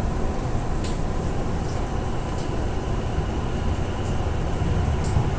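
Steady running rumble of a Hikari Shinkansen train heard from inside the car, with a few faint clicks over the low, even noise.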